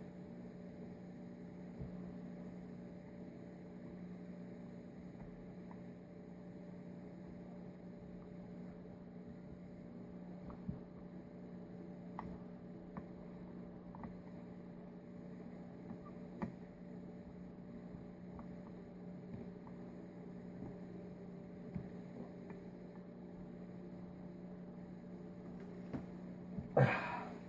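Steady electrical hum with a few faint, scattered clicks of a small screwdriver and brass main jet being worked into a Weber 40 IDF carburettor. A short vocal noise near the end.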